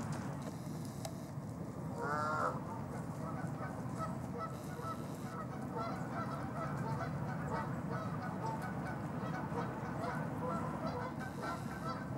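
Canada goose honking: one loud honk about two seconds in, then many short, quieter calls over a steady low background noise.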